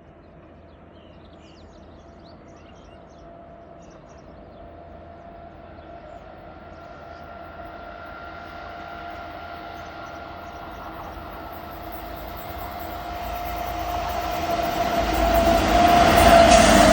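Ahmedabad–Howrah Superfast Express approaching at about 129 km/h: a steady rumble with a held whine that grows steadily louder, reaching its loudest near the end as the pitch of the whine drops slightly with the train drawing level.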